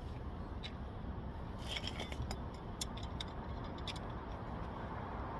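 A few light metallic clicks and clinks of hand tools and brake parts being handled, over a steady low background rumble.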